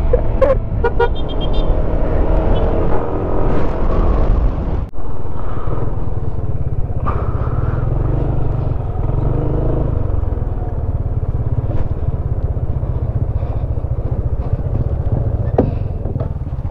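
Yamaha Smash underbone motorcycle's small single-cylinder engine running steadily under way, with one brief dip in loudness just before five seconds in.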